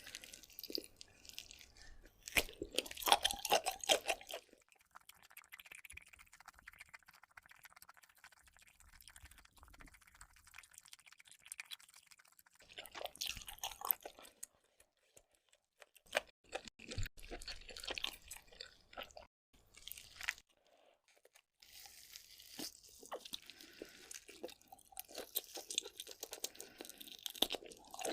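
A person chewing and crunching lobster and octopus, with wet crackly bites and clicks coming in several bursts separated by short quiet pauses.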